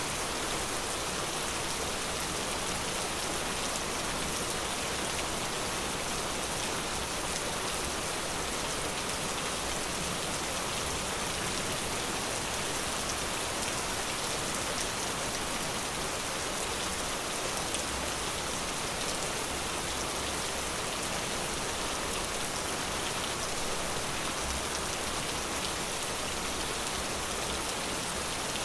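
Steady rain falling, an even hiss with many fine drop impacts, unchanging in loudness.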